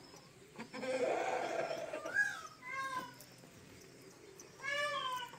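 Peafowl calling: a harsh, noisy outburst about a second in, then short wailing, cat-like calls that fall in pitch, with a longer call near the end.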